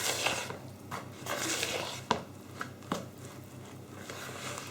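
Powdery low-protein flour mix poured from a jug into a bowl of cooked vegetables, a soft rushing at first, then a couple of light knocks of the jug against the bowl.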